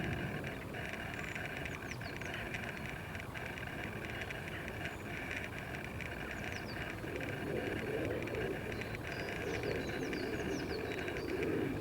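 Outdoor ambience: a bird giving repeated short, falling chirps in small groups over a steady hiss and a low rumble.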